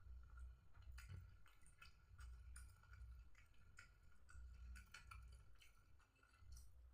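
Faint close-up mouth sounds of eating: quiet chewing with many small, irregular lip and tongue clicks and soft low thuds, over a faint steady high-pitched hum.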